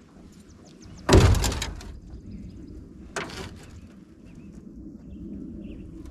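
A heavy thump about a second in that rings briefly, then a lighter knock about two seconds later.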